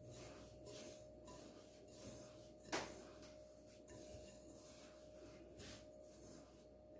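Hands rubbing semolina with butter and oil in a bowl: a faint, grainy rustle in soft repeated strokes. One sharp click near the three-second mark.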